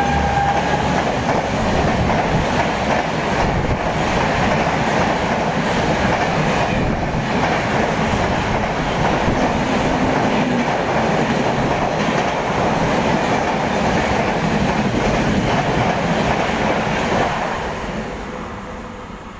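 Passenger train passing through the station at speed: a loud, steady rush of wheels on rail with clickety-clack from the coaches. The sound dies away over the last two seconds as the last coach goes by.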